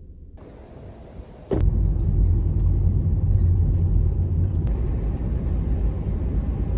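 Ford Escape driving: a steady low rumble of engine and road noise that jumps from faint to loud about a second and a half in.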